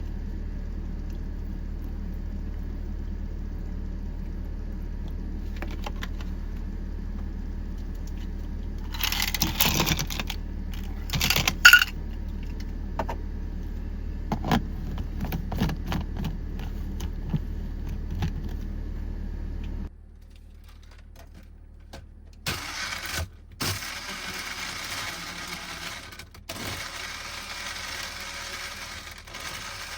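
Toyota HiAce van's engine idling with a steady low rumble, then switched off abruptly about two-thirds of the way through. A few seconds before it stops, keys jangle and clink loudly for a couple of seconds. After it stops, a quieter hiss and light rustling follow.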